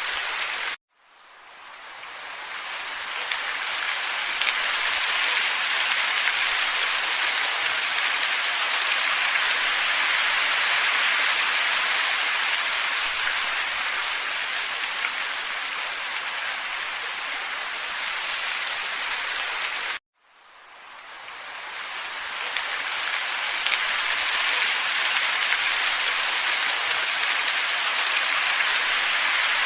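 Steady, soft wind hiss. It cuts out abruptly twice, about a second in and about twenty seconds in, each time fading back in over a few seconds, as where a looped ambience track restarts.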